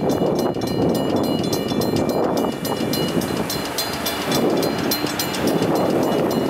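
A train passing through a railroad grade crossing, its wheels rumbling steadily on the rails, while the crossing's warning bell rings rapidly at about four strikes a second.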